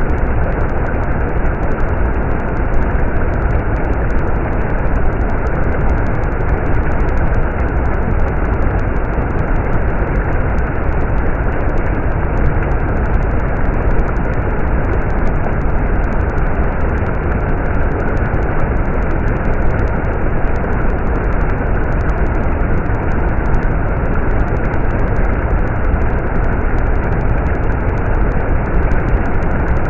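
Stream water rushing steadily, a deep, even rumble with no breaks.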